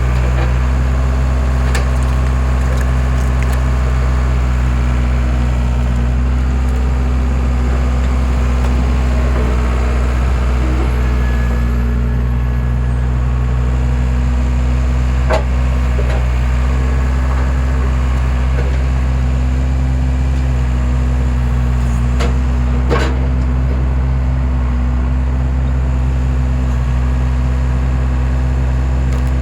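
Skid steer engine running steadily while it powers a homemade log splitter, with a few sharp cracks and knocks of wood splitting, the clearest about 15 and 23 seconds in.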